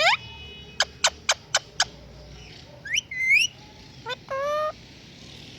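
Pet parrot whistling and calling: a run of five quick, sharp chirps, then a rising whistle that levels off, and a short steady whistled note near the end.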